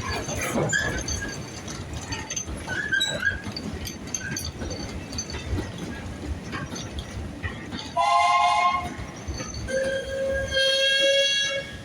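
Steam locomotive whistle blown twice: a blast of about a second, then a longer one of about two seconds near the end. Before the whistle come short high squeaks and clanks of wagons being shunted.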